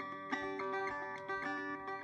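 Electric Vega five-string banjo (circa 1936–37) picking a run of single notes, a new note every third of a second or so, each ringing on.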